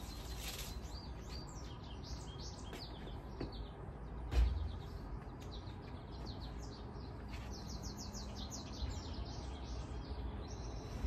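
Outdoor birds chirping and singing, with short high notes throughout and a quick run of them around eight seconds in. A single dull thump about four seconds in.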